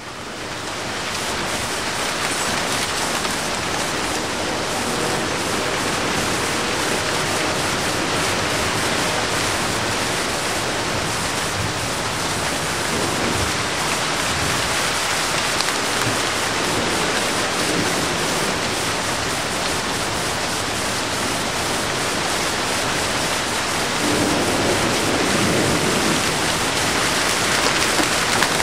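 Steady rain falling, a dense, even hiss that grows slightly louder near the end.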